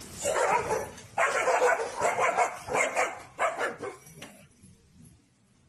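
A dog barking: a run of about five rough barks over roughly four seconds.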